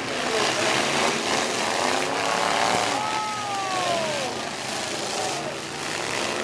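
Demolition-derby truck engines running and revving under a steady wash of crowd noise, with a falling whine about three seconds in.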